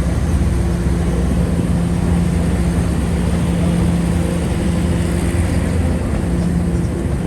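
Snowdon Mountain Railway train running steadily, heard from inside the carriage: a constant low rumble under a steady hum.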